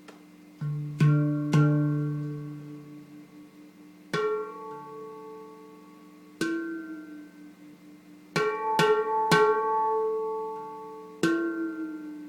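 Yishama Mystic 9 steel handpan, tuned to D minor, played by hand: about nine single struck notes, each ringing out and fading slowly, opening on the low note with a quick run of three strikes near the end. The instrument has just been reglued and retuned after damage in air transport.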